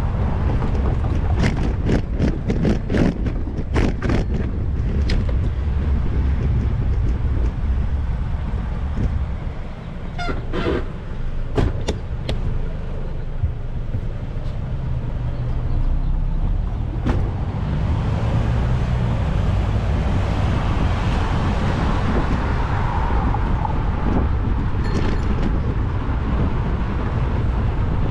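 Wind and road rumble on a bicycle-mounted action camera, with a run of sharp rattling knocks in the first few seconds and a few more around the middle as the bike goes over bumps. Motor traffic passes in the second half.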